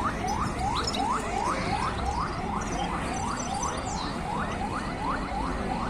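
Caged birds calling: one repeats a short rising note about four times a second, while small songbirds chirp high and thin over the market's background noise.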